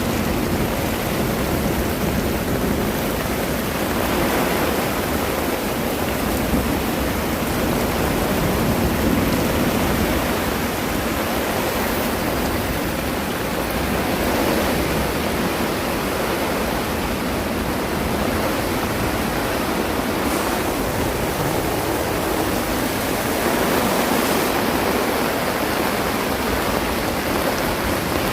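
Heavy rain and strong wind in a storm: a loud, steady, dense rushing hiss that swells and eases slightly without letting up.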